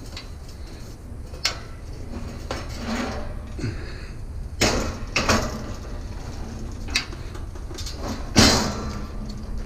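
Scrap items being shifted and set down: about half a dozen separate knocks and clatters, the loudest near the end, over a steady low rumble.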